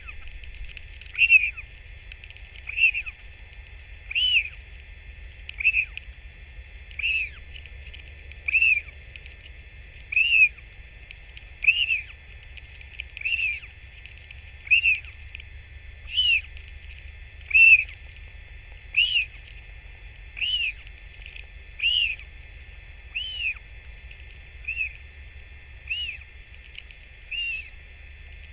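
A bird calling one short high note over and over, about every one and a half seconds and very regular, over a steady low rumble.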